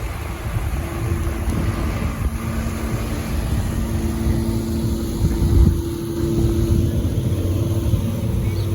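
A vehicle driving: a steady low rumble of road and engine noise with a faint hum.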